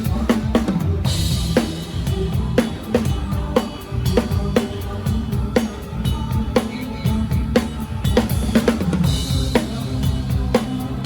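Live drum kit playing a steady beat with the band, snare and bass drum strikes about twice a second, with cymbal crashes about a second in and again near the end, over the band's bass.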